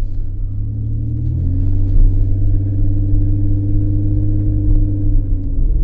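2003 Ford Escape engine and exhaust droning loudly under way; the pitch steps up about a second and a half in, holds, and drops back near the end. The exhaust is loud enough that it needs fixing.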